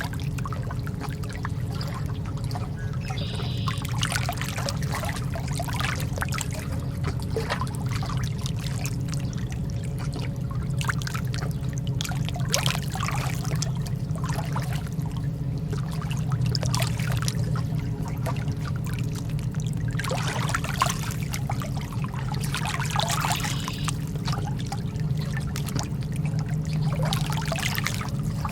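Lake water lapping and trickling in small, irregular splashes over a steady low hum.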